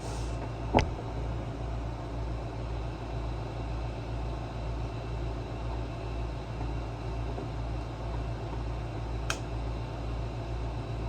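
Steady low mechanical hum with a slow, even pulsing underneath. There is a sharp click a little under a second in and a fainter click near the end.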